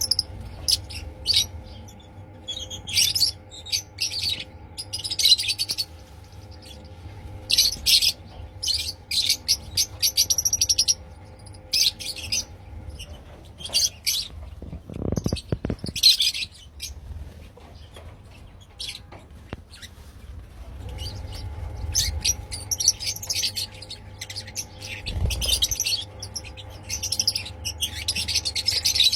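A flock of Fischer's lovebirds chirping, with many short, high, overlapping chirps throughout. A steady low hum runs underneath and drops out for several seconds in the middle.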